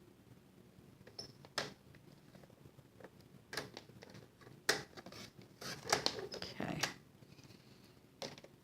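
Paper being handled and trimmed: a scattering of short sharp clicks and rustles, most of them between about three and a half and seven seconds in.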